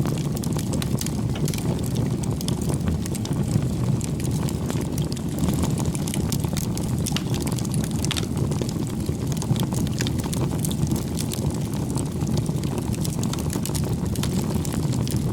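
Bonfire burning: scattered sharp crackles and pops of burning wood over a steady low rumble.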